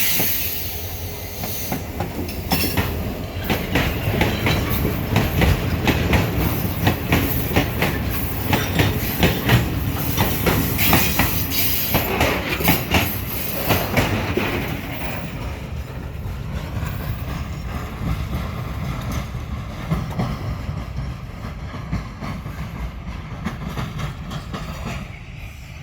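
Short iron ore train rolling past: the wagons' wheels clatter rapidly over the rail joints for the first half. After that the clatter thins out and fades, with a faint steady whine as the train moves away.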